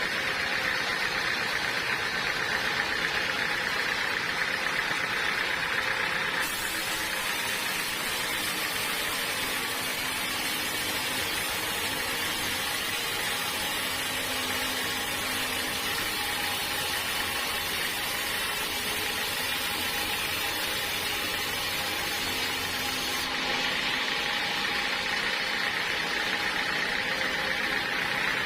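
Sawmill machinery running with a steady mechanical noise. The tone changes abruptly about six seconds in and again near the end.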